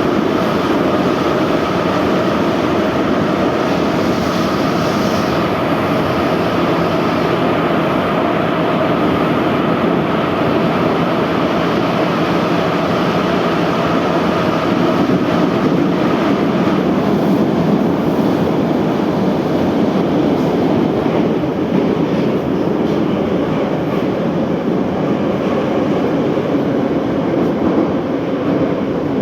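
Moscow Metro 81-717/714 subway train running between stations, heard aboard: a loud, steady rumble of wheels on rail and running gear, with a steady whine on top.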